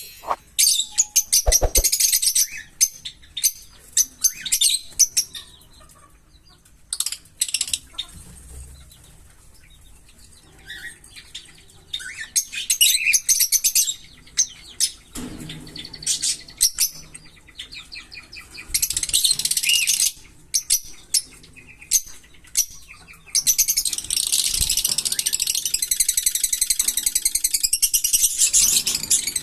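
Small pet parrots chirping and chattering in high-pitched bursts, with quieter gaps and a long stretch of continuous chatter near the end.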